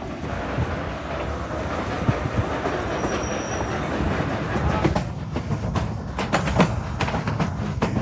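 Durango & Silverton narrow-gauge passenger train rolling along the track: a steady rumble, with a clickety-clack of wheels over the rail joints that comes in clearly about five seconds in.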